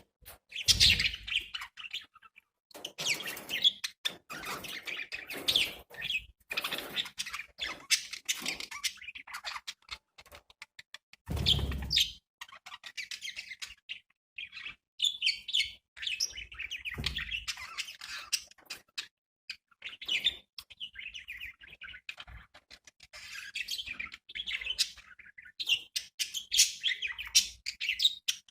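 Budgerigars chirping and warbling in continuous, irregular chatter, broken by a few dull thumps, the loudest about twelve seconds in.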